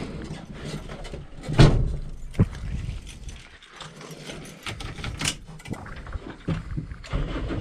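Scattered clicks, knocks and light rattles of things being handled inside the car before the engine starts, with the loudest knock about one and a half seconds in.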